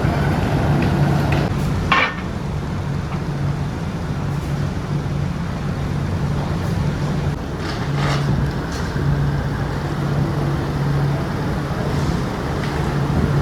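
Factory machinery running with a steady low hum, with sharp metallic clanks about two seconds in and again about eight seconds in.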